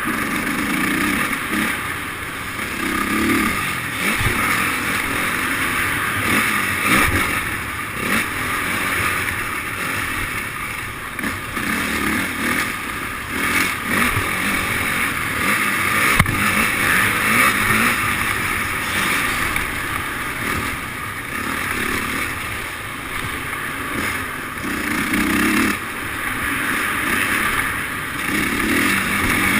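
Motocross dirt bike engines running, with the level swelling and easing throughout.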